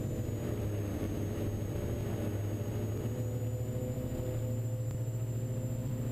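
Twin engines of a Diamond DA42 NG running steadily, heard inside the cockpit, a deep drone under a steady high whine, as the airplane sets off on its takeoff roll again after an aborted takeoff.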